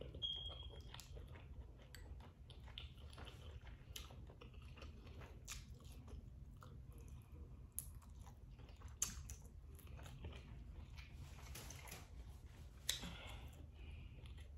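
Faint eating sounds: chewing and biting shrimp-boil food coated in a thick sauce, with small wet clicks and lip smacks from the mouth and fingers.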